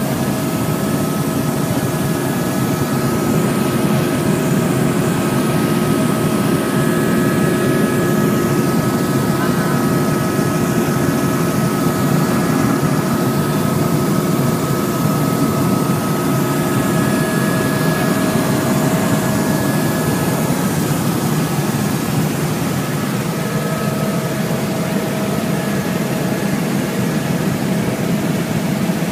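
Helicopter engine and rotor noise heard from inside the cabin: a loud, steady rumble with several steady whining tones over it.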